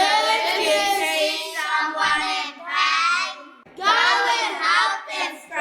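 Children singing together in a few long phrases separated by short breaths.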